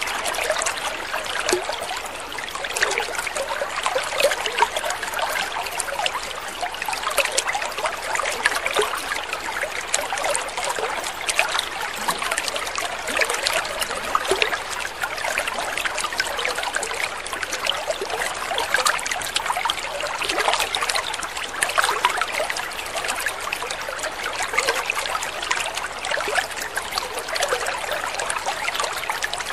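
Water trickling and splashing steadily in a continuous, even babble of small splashes.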